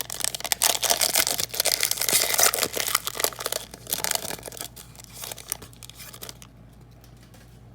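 A foil trading-card pack wrapper being torn open and crinkled. The crackling is dense for about four seconds, then thins out and stops about six and a half seconds in.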